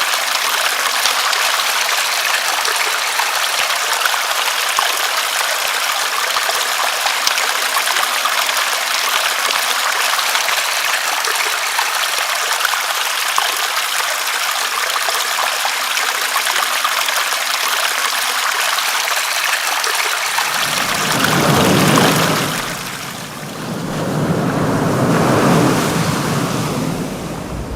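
Steady, dense rain hiss. About twenty seconds in it gives way to a deeper surging water sound that swells and ebbs twice.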